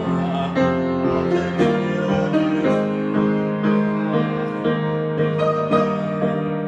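Solo piano improvisation: a steady run of struck notes and chords, left to ring into one another.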